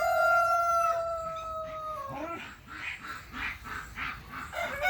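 Rooster crowing: a long held call that slowly falls in pitch and breaks off about two seconds in, followed by a run of short, quieter calls about three a second; another crow starts near the end.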